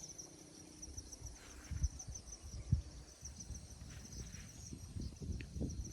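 Insects chirping steadily in a high, rapid, evenly pulsing trill, with irregular low thumps and rustles underneath.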